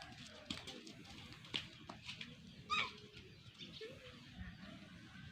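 Birds chirping faintly with short, scattered calls. One louder, wavering call comes just under three seconds in.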